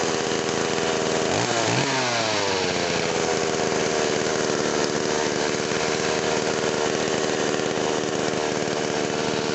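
Two-stroke petrol chainsaw running steadily as it is warmed up just after starting. About a second and a half in it is revved briefly, then drops back to a steady run.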